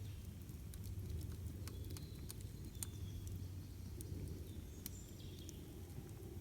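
Campfire crackling: irregular sharp pops and snaps of burning wood over a low, steady rumble.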